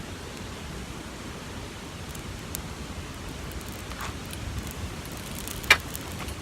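Steady outdoor hiss with a few faint crackles, and one sharp, loud snap near the end, heard while dry leaves are being lit for a campfire.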